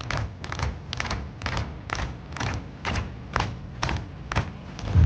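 A regular series of sharp slaps, about two a second, some in quick pairs, over a low, faint thumping bass.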